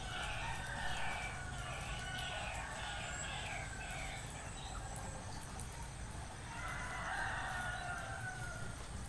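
Roosters crowing, one long crow near the start and another about seven seconds in, over a bird's quick, repeated chirps during the first four seconds.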